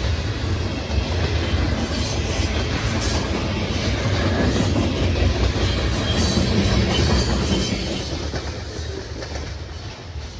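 Freight train's cars rolling past on the rails: a steady heavy rumble with the clatter of wheels over the track. It fades over the last couple of seconds as the train moves away.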